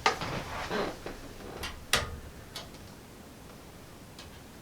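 Scattered clicks and light knocks of a keyboard cord's plug being handled and pushed into a computer's port, the sharpest about two seconds in.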